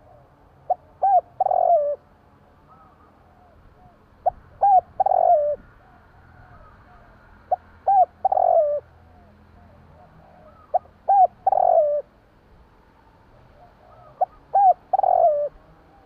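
Spotted dove cooing: five repeated phrases, each two or three short coos followed by a longer, falling coo, about one phrase every three seconds.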